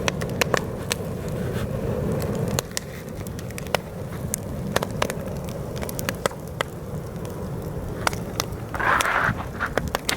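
Wood campfire crackling with many sharp pops, over a low rumble of heavy wind buffeting the microphone. The wind rumble eases about two and a half seconds in, and a brief rushing hiss comes near the end.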